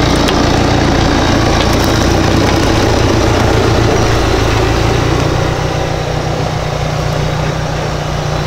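Jeep Wrangler JK engine running steadily at low revs as the 4x4 crawls slowly forward. About five seconds in it drops a little and settles into an even low throb.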